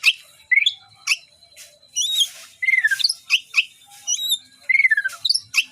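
White-rumped shama singing a fast, varied song of loud whistled phrases: falling and rising slurred notes, repeated hooked whistles, and harsh rasping notes mixed in.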